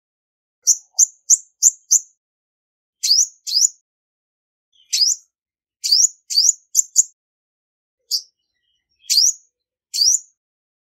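Female Olive-backed Sunbird calling: a series of short, high, upward-sweeping chirps, some in quick runs of three to five, with silent gaps between.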